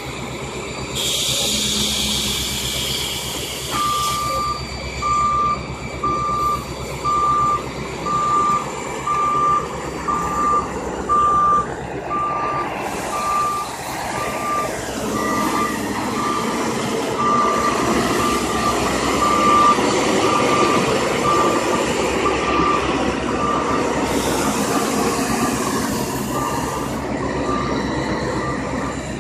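Dump truck backing up, its backup alarm beeping about once a second over the running engine, with several bursts of hissing air lasting a few seconds each.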